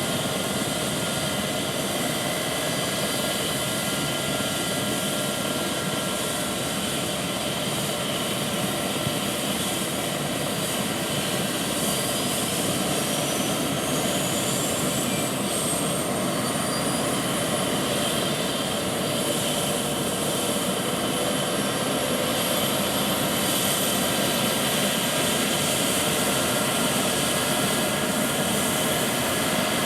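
Eurocopter EC135 T2+ helicopter's twin Turbomeca Arrius turboshaft engines and rotor running steadily. A high turbine whine climbs in pitch for about fifteen seconds and then holds high: the engines spooling up.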